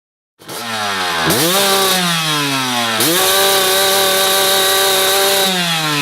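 Two-stroke dirt bike engine revving hard: its pitch jumps up about a second in, sags, jumps again at three seconds and holds high for a couple of seconds before falling away.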